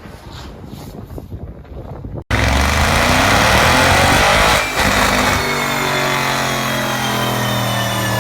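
Audi RS7's twin-turbo V8 exhaust: a quieter rushing noise for about two seconds, then a sudden cut to the engine revving loudly. It dips briefly and then settles into a steady drone.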